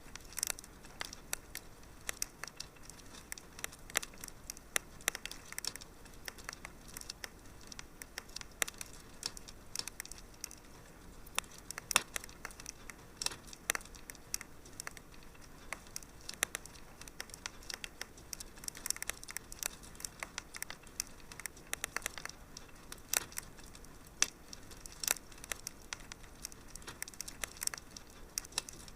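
Fireplace fire crackling: irregular sharp pops and snaps, several a second, over a soft steady hiss.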